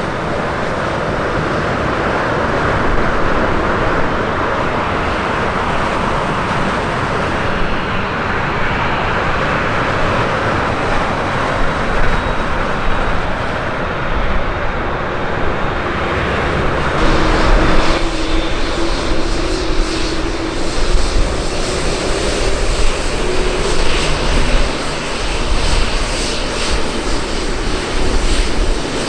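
Jet airliner engines, loud and steady, as an aircraft moves near the airport. About 17 seconds in the sound changes: a steady low hum comes in under the engine noise, along with more deep rumble.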